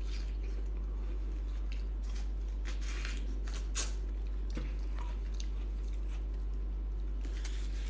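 Watermelon being bitten and chewed close to the microphone: a few soft, wet crunches, one a little louder just under four seconds in, over a steady low hum.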